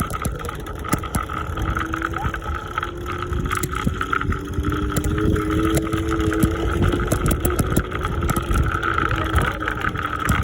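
Riding noise from a scooter: wheels rumbling and clicking over pavement, with wind on the microphone. A steady high whine runs underneath, and a fainter tone rises slowly in the middle.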